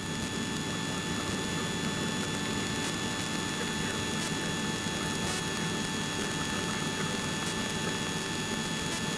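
Steady engine and propeller drone of a light aircraft in flight, heard from inside the cabin, with a few faint steady tones running through it.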